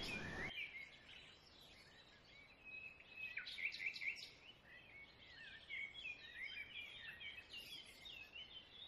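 Faint chirping of small birds: many short, quick calls overlapping, busiest around three to four seconds in and again in the second half. A low hiss drops away about half a second in.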